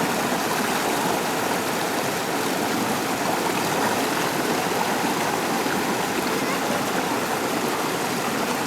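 McCloud River water rushing and splashing over rocks in a steady, unbroken noise.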